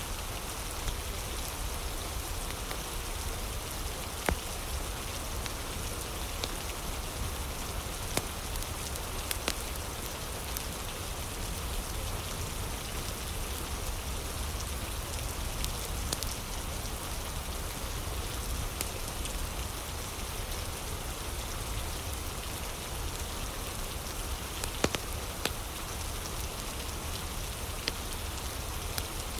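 Steady rain with a low rumble underneath, mixed with a crackling fire whose sharp pops come every few seconds.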